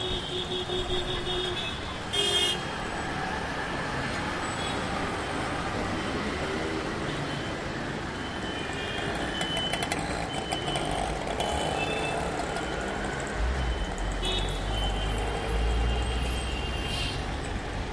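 City street traffic: a steady wash of passing vehicles, with a horn tooting at the start and again about two seconds in. A heavy vehicle's low rumble builds up about three-quarters of the way through.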